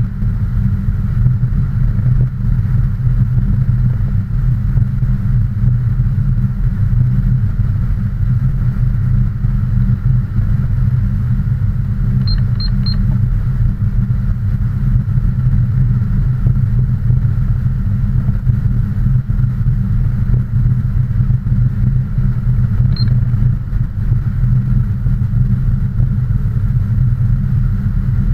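Steady low rumble of a vehicle's engine and road noise that does not change, with a few short high ticks near the middle and one more later.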